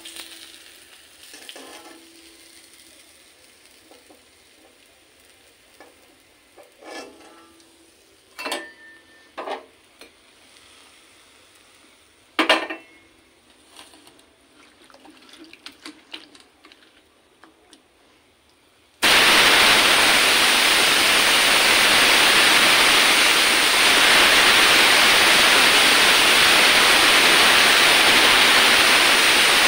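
A few scattered clinks and knocks of kitchen utensils, then about two-thirds of the way in a loud, steady sizzle starts suddenly as chopped vegetables go into hot oil in an iron wok.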